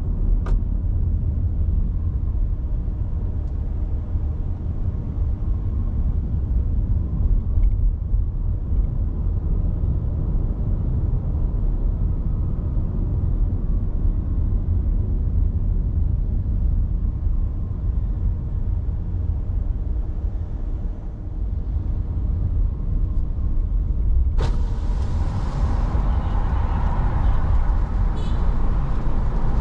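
Car driving on a city road: a steady low rumble of road and engine noise. About 24 seconds in, a sudden louder hiss joins and keeps going.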